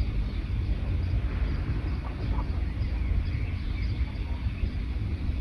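Small forest birds chirping faintly in short high calls over a loud, steady low rumble.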